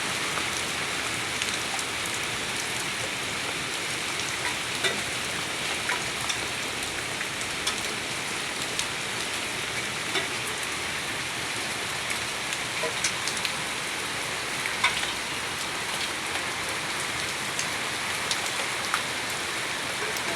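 Heavy rain falling steadily, a constant hiss with scattered sharper drop impacts throughout.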